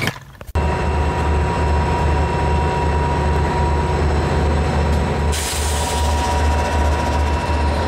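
A train running past: a steady low rumble pulsing evenly, with a thin steady whine over it. It starts abruptly about half a second in, and a hiss joins about five seconds in.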